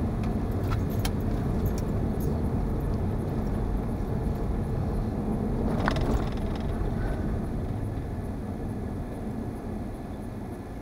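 Car running and moving, a steady low rumble of engine and road noise, with a few light clicks and jingles in the first couple of seconds and a short squeak about six seconds in.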